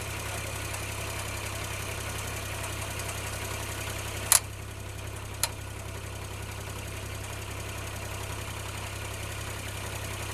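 Kubota DC35 combine harvester's diesel engine idling with a steady hum. Two sharp knocks cut across it, the first loud and a little over four seconds in, the second fainter about a second later.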